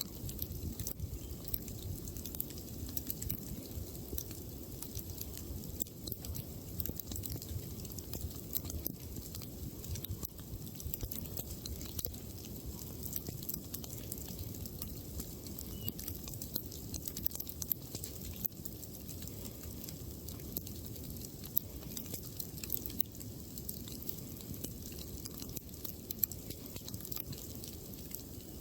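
Wood campfire crackling, with frequent small sharp pops over a steady low rumble.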